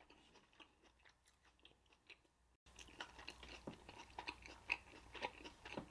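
Faint, close-miked chewing of a mouthful of onion-wrapped burger (beef patty, cheese, grilled onion): soft wet mouth clicks and smacks, sparse at first, then busier and louder after a brief dropout about two and a half seconds in.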